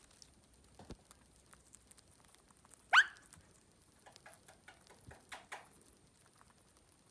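Indian ringneck parakeet nibbling and cracking a peanut: light, scattered clicks and crunches of beak on shell. A brief, loud, sharply rising squawk comes about three seconds in, and a quick run of sharper crunches follows a second or two later.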